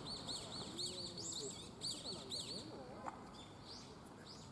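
A small bird calling: a rapid series of short, high chirps, about five a second, for the first two and a half seconds, then a couple more near the end.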